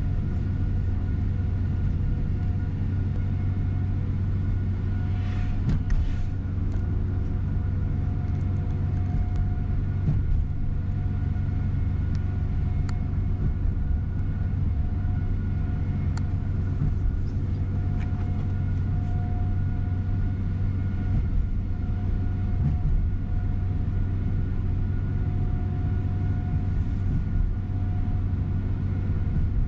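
Steady engine and road hum inside a tour coach's cabin while it drives along, with a few light rattling clicks and a brief louder rush about six seconds in.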